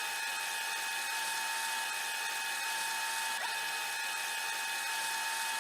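Power drill running steadily at constant speed, a whine over a hiss, while cleaning old gasket material off a differential's mating surface.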